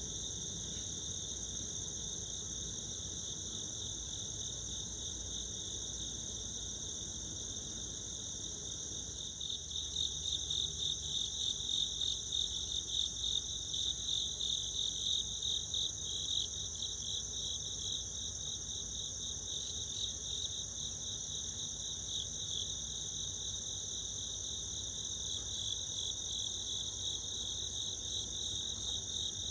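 A chorus of insects trilling steadily at two high pitches. About ten seconds in, a nearer insect's rapidly pulsing call joins and stands out for several seconds before easing back into the chorus.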